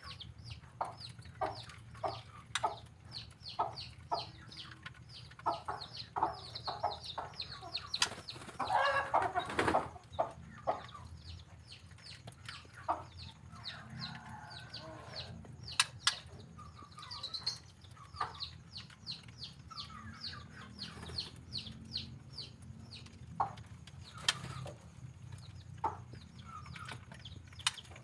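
White-rumped shama (murai batu) singing persistently: long runs of short, high, quick chirps several times a second, mixed with lower short notes. A louder, fuller passage comes about eight seconds in.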